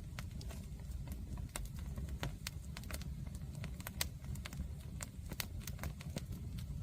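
Wood bonfire burning, with irregular sharp crackles and pops, several a second, over a steady low rumble.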